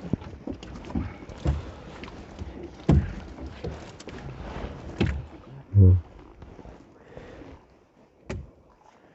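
Irregular knocks and thumps of a fishing net and its catch being handled in a small boat, the loudest a low thud about six seconds in.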